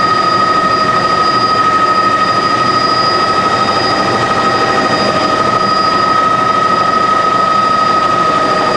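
Helicopter engine and rotor running, a loud steady drone with a constant high whine over it.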